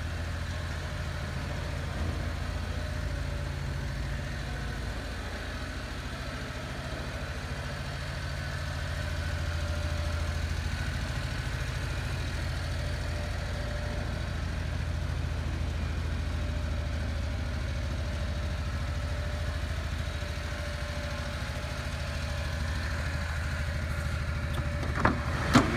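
1992 Suzuki Carry kei truck's small three-cylinder engine idling steadily, with a single knock near the end.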